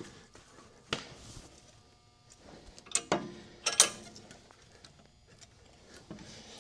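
A few sharp metal clanks and knocks from a steel C-clamp being handled and set against the suspension parts: one about a second in, then a louder cluster of three around halfway, the last with a brief ring.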